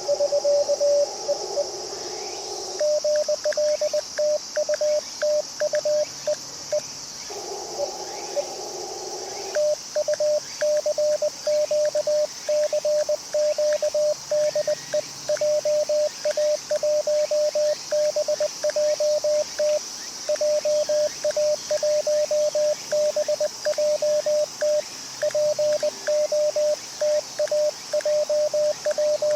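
Morse code sidetone from a ham radio transceiver: a single steady tone of about 600 Hz keyed on and off in dots and dashes as CW is sent. Twice, near the start and about eight seconds in, the keying pauses and narrow filtered receiver hiss from the band is heard instead.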